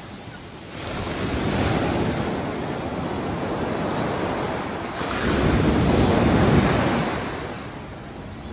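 Ocean waves breaking and washing in on the shore. One wave surges about a second in, and a second, louder one comes a little past the middle. It fades away near the end.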